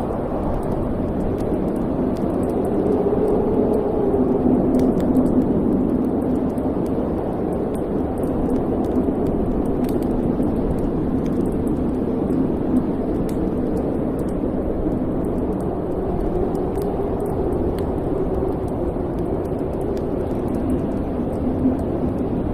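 Wood fire burning in a fireplace: a steady low rushing roar that swells gently now and then, with faint scattered crackles.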